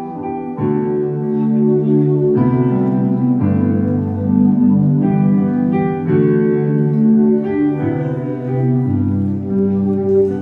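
Live band playing an instrumental passage with no vocals: held chords over bass notes that change every second or so.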